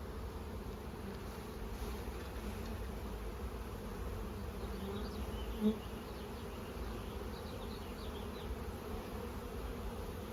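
Honeybees buzzing in a steady drone around an opened hive, stirred up by frames being shaken and handled. A brief louder buzz comes a little over halfway through.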